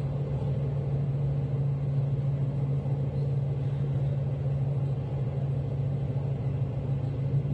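S-Bahn train running at speed, heard from inside the carriage: a steady rumble with a low steady hum that comes in right at the start.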